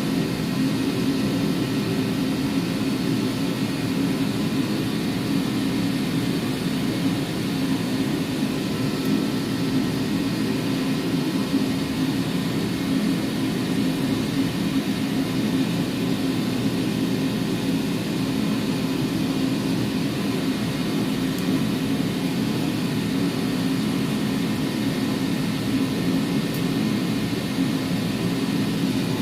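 A steady, unchanging mechanical drone with a low hum, like a fan or blower running continuously.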